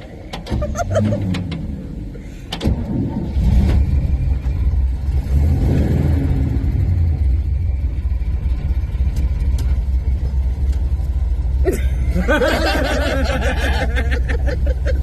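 1957 station wagon's engine running steadily: a low rumble that sets in about three seconds in, heard from inside the car. Near the end a higher, wavering sound joins it.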